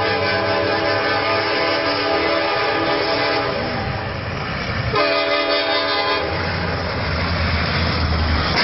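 Locomotive air horn blaring a long held chord, broken briefly about five seconds in and sounded again before stopping about a second later, followed by the low rumble of the train running past.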